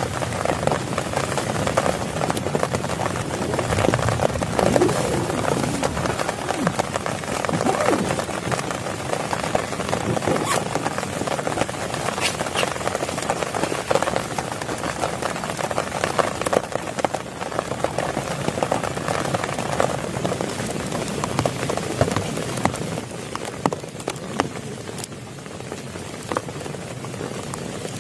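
Heavy rain falling steadily, with many separate drops striking close by. It eases slightly near the end.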